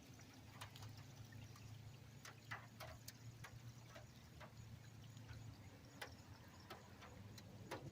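Near silence: scattered faint water drips over a low steady hum.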